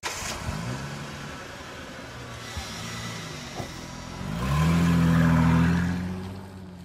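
Car engine accelerating hard, its pitch climbing and dropping back several times as it shifts up through the gears. It is loudest about five seconds in, then fades away.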